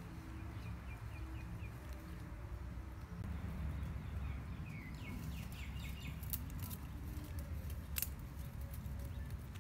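Forest ambience with a steady low rumble and two short runs of quick, high bird chirps, one near the start and one about five seconds in. A few sharp snaps stand out, the loudest about eight seconds in.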